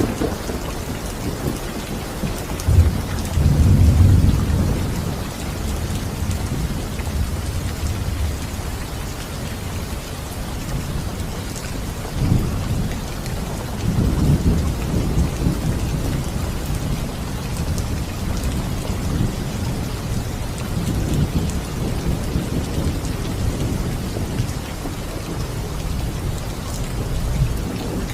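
Steady rain falling, with low rolls of thunder rumbling through it. The loudest roll comes about three to four seconds in, and further rolls swell around twelve to fifteen seconds in.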